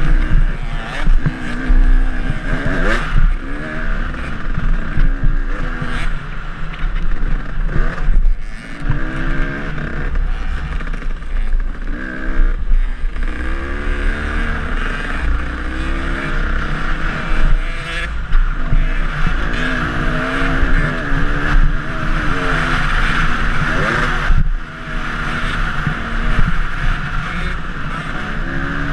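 KTM dirt bike engine revving up and down repeatedly as it is ridden along a trail, with occasional sharp knocks.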